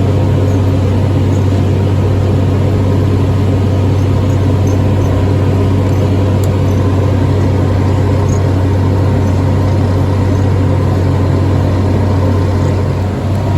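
Tractor engine and hay mower running steadily while cutting hay, a constant low hum with a dense mechanical rush over it.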